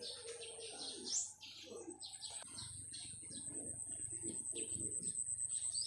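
Small birds chirping in many short, quick calls over a steady high-pitched tone.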